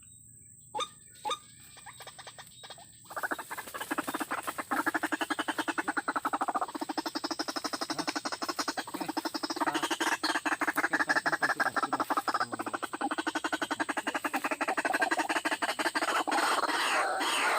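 White-breasted waterhen (ruak-ruak) calling: a long, rapid run of harsh, pulsed croaking notes that starts about three seconds in and grows louder and busier near the end. Two short clicks come about a second in.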